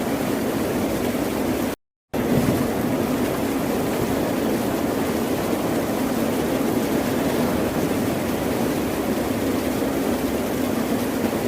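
Steady wash of ocean surf with no distinct breaking waves. It cuts out to silence for a fraction of a second about two seconds in.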